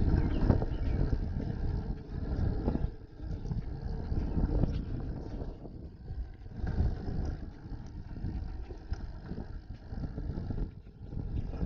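Wind and road rumble on a bike-mounted action camera's microphone during a bicycle ride, a noisy low rumble that swells and dips every second or two.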